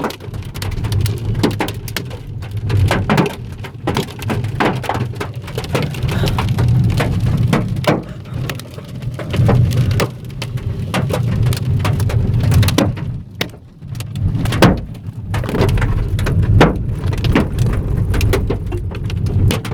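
Hailstones hitting the car, heard from inside the cabin: a rapid, irregular run of sharp knocks, some much louder than others, over the car's steady low rumble.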